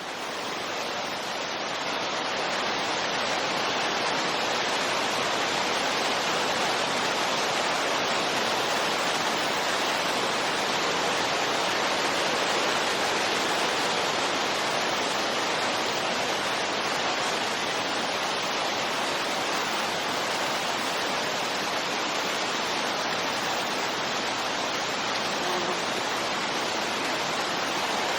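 Steady wind white noise: an even rushing hiss with no gusts or lulls, fading up over the first couple of seconds and then holding level.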